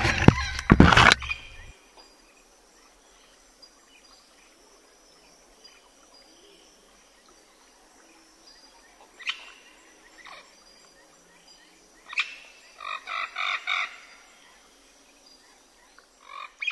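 Rustling and handling noise for the first second or two, then a quiet outdoor background broken by a few short bird calls, with a quick run of four or five calls near the end.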